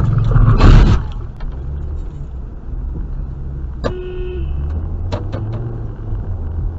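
Car engine and road rumble, with a loud burst of noise about half a second in and a short car horn toot about four seconds in, followed by a few sharp clicks.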